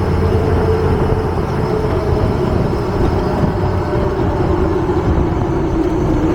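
HMMWV diesel V8 engine idling steadily while warming up, with a steady squeak that the owner puts down to the drive belt, wet from radiator fluid spilled on it.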